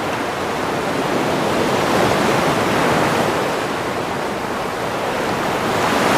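Sea waves breaking on the shore: a continuous rushing wash that swells about two seconds in and again near the end.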